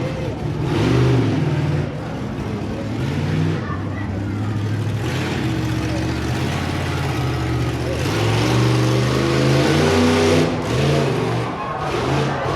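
Monster truck engine revving loudly, surging about a second in and again from about five to ten seconds in.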